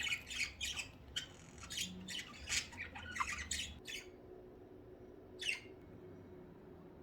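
Budgerigars squawking and chirping in quick short calls for the first four seconds, then one more call about five and a half seconds in.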